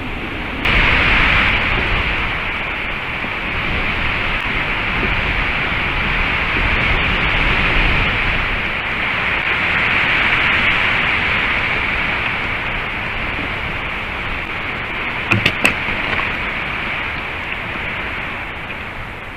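Strong wind on the nest camera's microphone: a loud, steady rushing hiss that swells and eases, with a quick cluster of sharp sounds about fifteen seconds in.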